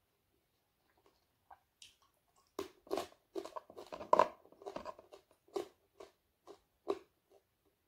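Crunching of crispy fried dried fish being chewed close to the microphone. A quick run of crunches starts about two and a half seconds in, is loudest around the middle, and thins out toward the end.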